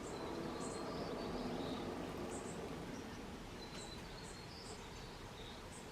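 White-crowned sparrows bathing in a birdbath: a noisy wash of splashing, loudest in the first half, over short high chirps that repeat every half second or so.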